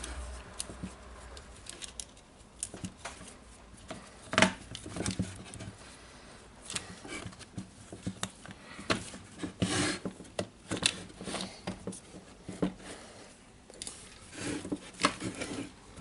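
Plastic tool housing being handled and fitted onto a cordless circular saw: irregular clicks, taps and light scraping of plastic parts, with a sharper knock about four seconds in.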